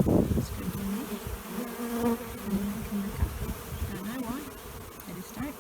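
Honey bees buzzing around an open hive, individual bees flying close past with a pitch that rises and falls. There is a brief low rumble at the very start.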